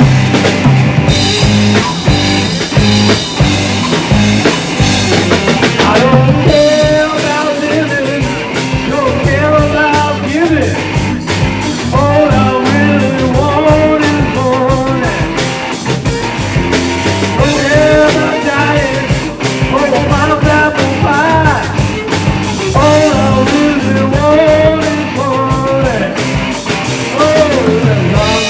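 A rock band playing live, with drum kit and bass; a bending lead melody comes in about six seconds in.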